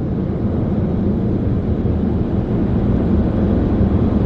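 Steady low rumble heard from inside a car's cabin, even in level with no distinct events.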